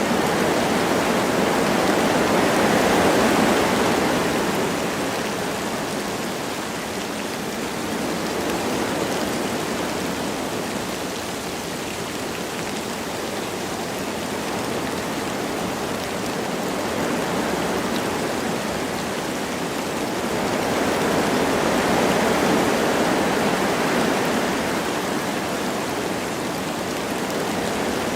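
Wind blowing through forest trees with light rain, a steady rushing noise that swells into two long gusts, one at the start and one about twenty seconds in.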